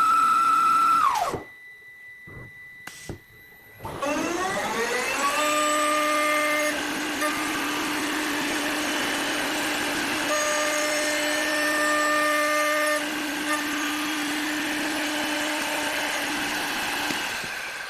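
CNC wood lathe's motor whine drops away about a second in, followed by a few clicks. About four seconds in it spins up again with a rising whine and settles into a steady run.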